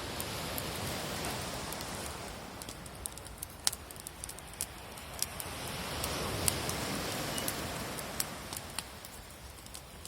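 Bonfire of sticks crackling: scattered sharp pops and snaps over a steady rushing hiss that swells twice.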